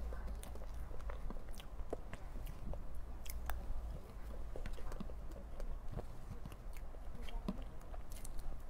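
A person chewing soft cream cake, with wet mouth sounds and many small scattered clicks and smacks, and another spoonful taken partway through, over a low steady hum.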